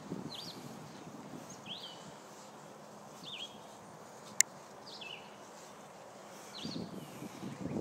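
A bird chirps every second and a half or so, each a short sweeping chirp. About halfway through comes a single sharp mouth click, a tongue 'chuck' that cues the German Shepherd to restrain herself from the squirrel, and low rustling follows near the end.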